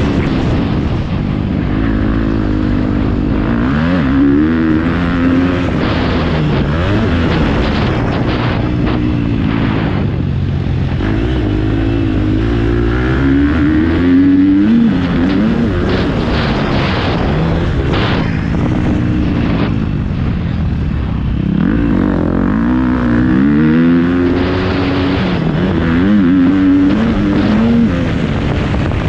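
Motocross bike engine revving up and backing off over and over, its pitch climbing and dropping every few seconds as the throttle is worked.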